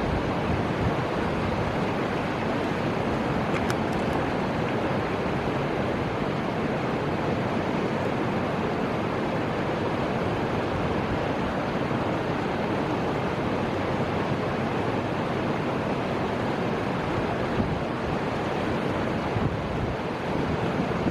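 Steady rushing of the Fuji River's flowing water, an even, unchanging wash of noise with some wind mixed in.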